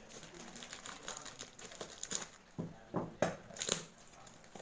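Parcel packaging crinkling and rustling as it is handled and opened, with irregular crackles and a few louder crinkles about three seconds in.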